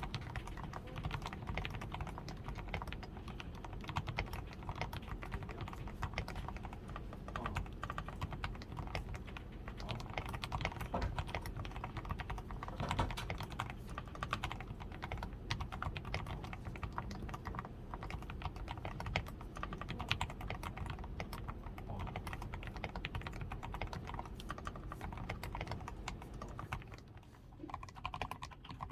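Continuous fast typing on a DAREU A87 Pro mechanical keyboard, fully lubed with Krytox 105, with a tape-modded PCB, foam-reinforced switches, lubed stabilizers and XDA keycaps. Dense keystroke clicks with a brief pause near the end.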